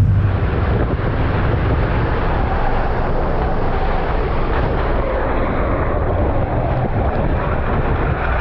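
Race car engines running laps on a dirt oval, a steady, dense wash of engine noise.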